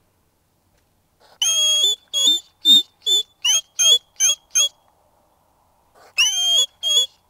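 A small animal's squeaky calls: a run of about eight short, high calls, each sliding down in pitch, then two more near the end.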